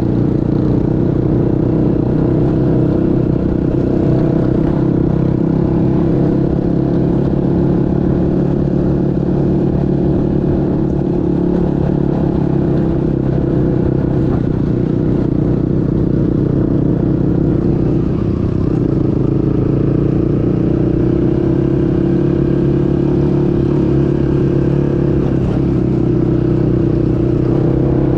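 Motorcycle engine running steadily under way, its pitch holding nearly constant with small rises and falls.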